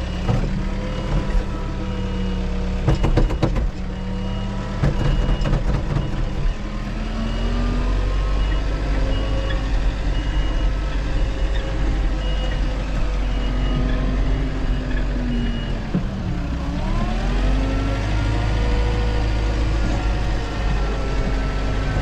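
Engine of a grapple-equipped machine running under load, its backup alarm beeping about once a second while it reverses; the beeping stops about three-quarters of the way through. There are several metallic clanks a few seconds in, and near the end the engine pulls down in pitch and then recovers.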